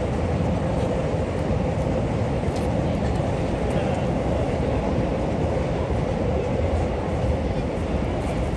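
Train running steadily: an even rumble with a low hum, holding level without rising or falling.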